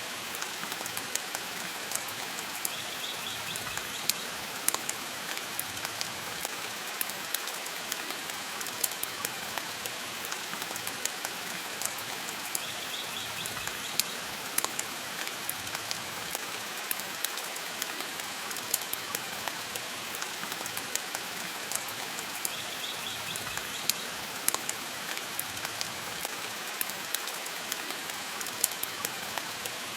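Steady rain with a wood fire crackling, a continuous hiss dotted with frequent sharp pops and snaps.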